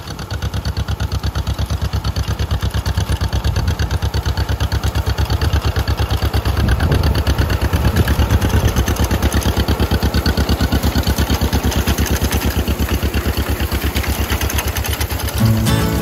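Antique farm tractor engine running steadily, with a rapid even exhaust beat of about eight or nine pulses a second. Music comes in just before the end.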